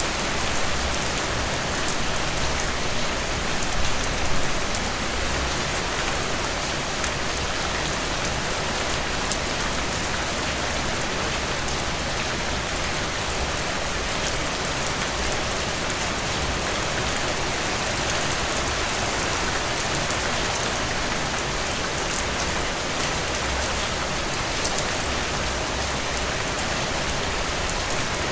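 Steady rainfall, an even hiss of rain with fine drop patter on surfaces, holding at the same level throughout.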